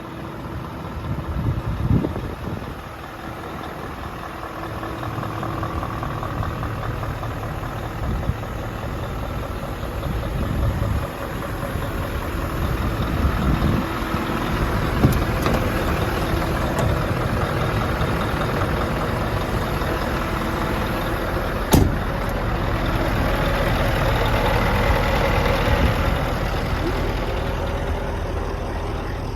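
Scania R580 truck's 16-litre V8 diesel idling steadily, with a sharp knock about three quarters of the way through.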